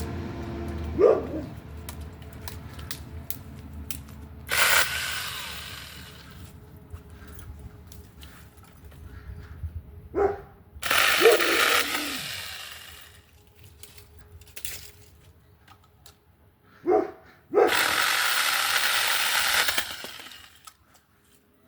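Mini chainsaw cutting through tree branches in three bursts of one to two and a half seconds each, with pauses between.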